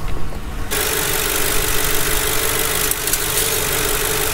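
2006 Mercury Grand Marquis's 4.6-litre V8 idling with the hood open: a steady hum over a wide hiss, setting in suddenly under a second in.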